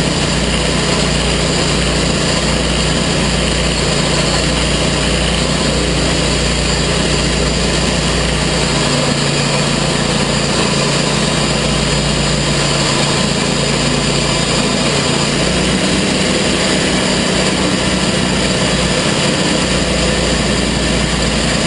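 Gasoline engine of a TimberKing portable sawmill running steadily, its low tone stepping up slightly about fifteen seconds in.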